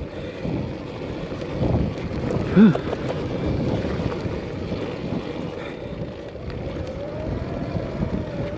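Arctic Leopard XE Pro electric dirt bike on a dirt trail: wind buffeting the microphone over the rumble of the tyres and chassis on rough ground. Near the end the faint whine of the electric motor rises and falls. A brief pitched sound comes at about three seconds in.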